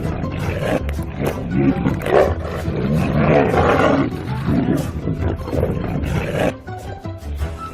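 A large wild animal roaring repeatedly, loudest about halfway through and quieter near the end.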